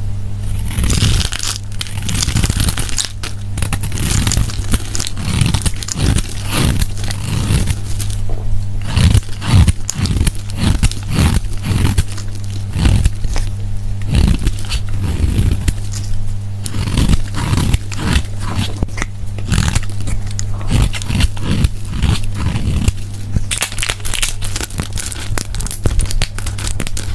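Dry Ivory soap being broken up, crumbling with dense, irregular crunching and crackling, over a steady low hum.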